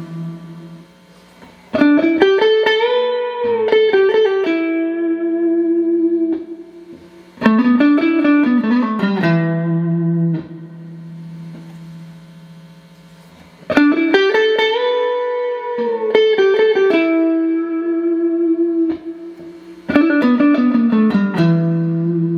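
Clean electric guitar played through a Boss RV-6 reverb pedal and a GE-7 equalizer into Roland JC-120 amps. It plays a repeated phrase of quick picked notes with a string bend, and each phrase ends on a held chord that rings out.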